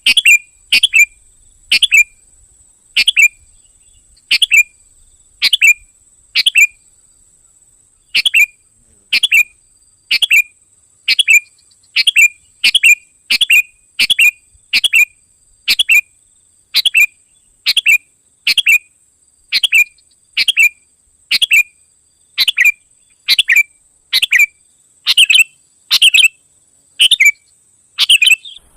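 Sooty-headed bulbul (kutilang) lure call: a short, sharp, downward-sweeping note repeated about once a second, loud and clear, over a faint steady high-pitched whine.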